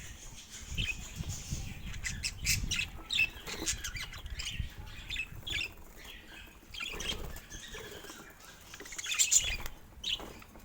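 Pet budgerigars chirping in short, high calls, mixed with scattered clicks and rustles, with a louder flurry about nine seconds in.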